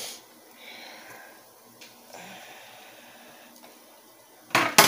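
Faint kitchen handling noises, then two loud, sharp knocks in quick succession near the end.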